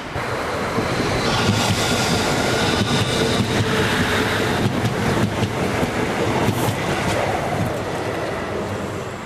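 Class 333 electric multiple unit passing close at speed, steel wheels running loud on the rails with clicks and a steady high whine, then dying away as the train recedes near the end.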